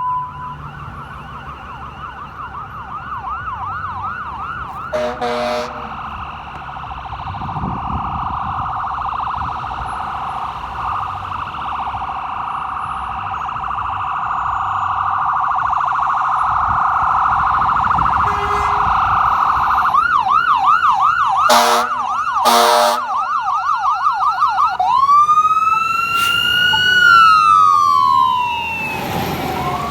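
Fire engine's electronic siren on a fast warbling phaser setting, with air horn blasts laid on top once about five seconds in and twice about two thirds of the way through. In the last few seconds the siren changes to a single tone that rises and then slowly falls in pitch.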